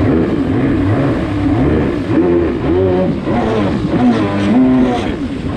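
DASA two-stroke engine in a Kawasaki 650SX stand-up jet ski running under way, its revs rising and falling over and over.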